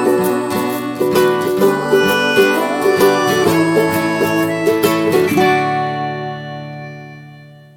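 Music played on plucked string instruments: a run of quick picked notes that ends about five seconds in on a final chord, which rings out and fades nearly to silence.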